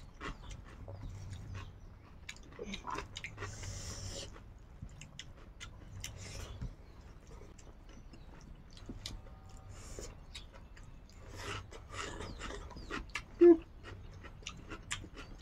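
Close-up mouth sounds of people eating rice with their hands: chewing and wet lip-smacking clicks, with rustles of fingers working through the rice. About thirteen seconds in there is a single short, loud squeak-like sound.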